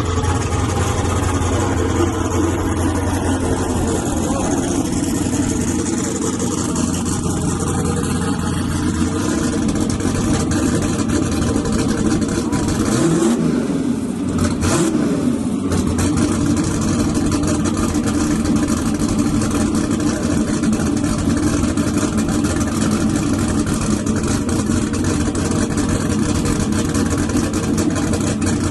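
Drag-racing S10 truck engines running hard and loud without a break. The engine pitch sweeps about halfway through.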